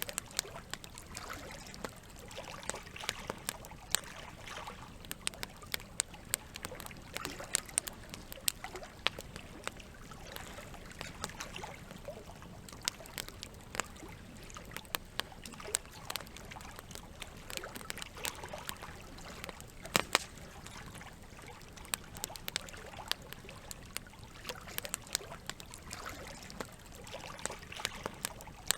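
Campfire crackling, with frequent sharp pops at irregular intervals, the loudest a little over two-thirds of the way through, over a steady trickle of running water.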